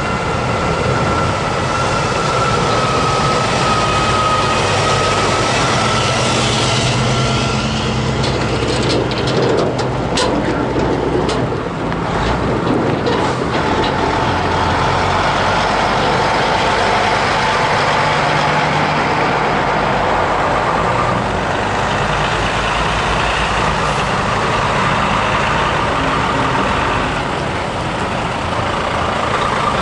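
Heavy trucks driving slowly past one after another, their diesel engines running steadily, with a few short sharp clicks about ten seconds in.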